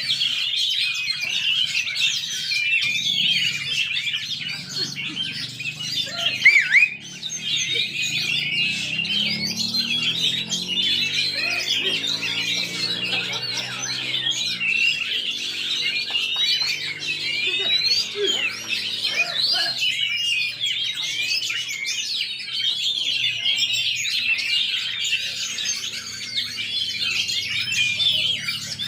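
Many caged songbirds hung together at a bird-singing contest, all singing at once in a dense, unbroken chatter of chirps, trills and whistles. One louder rising call stands out about six and a half seconds in.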